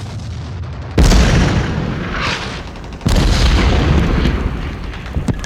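Two heavy explosions, about two seconds apart, each a sudden boom with a deep rumble that slowly dies away, followed by a few sharp cracks near the end. These are sound effects of bombs landing in a war film.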